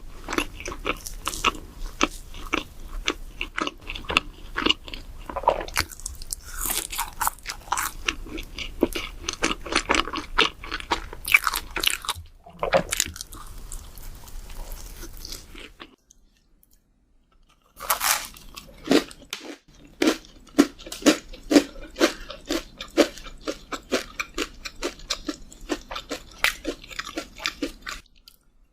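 Donuts being bitten and chewed: a steady run of quick, wet mouth clicks. The chewing stops for about two seconds just past the middle, then a fresh bite and more chewing.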